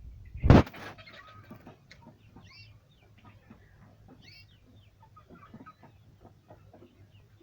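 A loud knock about half a second in, then birds chirping faintly with scattered light clicks.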